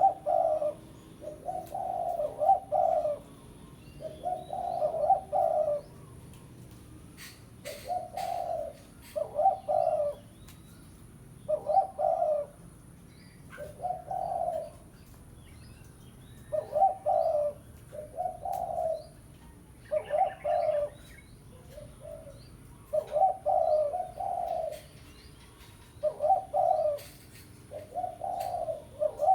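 Spotted dove (tekukur) cooing over and over in short phrases of low notes, one to three coos at a time with brief pauses between. This is the dove's call used as a lure to draw wild doves.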